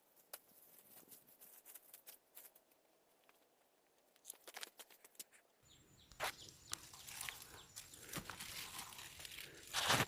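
Rustling and crackling with scattered sharp clicks, growing denser and louder about halfway through, with a louder burst near the end.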